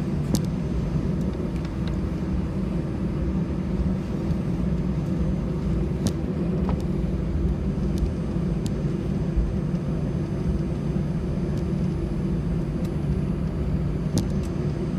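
Steady low rumble and hum inside the cabin of an Airbus A320 on the ground before takeoff, with a few faint clicks.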